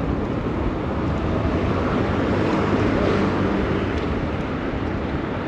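City street traffic rumble mixed with wind noise on the microphone of a moving bicycle, swelling slightly around the middle as a vehicle goes by.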